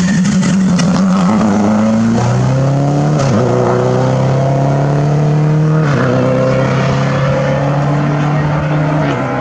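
Rally car engine under hard acceleration, its pitch climbing steadily through each gear and dropping back at quick upshifts, about three and six seconds in.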